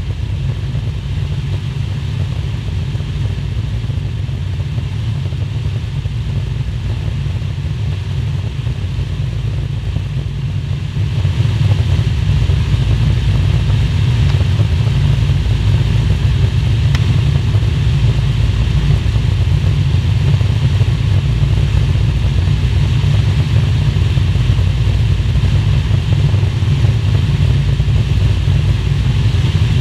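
Steady drone of a propeller warbird's piston engine with a low rumble, stepping up in loudness about eleven seconds in.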